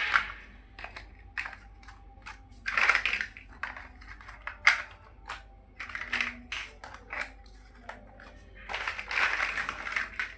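Small plastic building bricks clicking and clattering as pieces are handled and pressed together: a run of irregular sharp clicks, with longer rattling clatters about three seconds in and again near the end.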